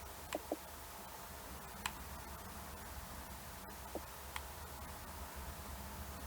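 Small push buttons on a phone LCD tester clicking about five times at uneven intervals, a quick pair near the start and then single clicks, over a faint steady low hum.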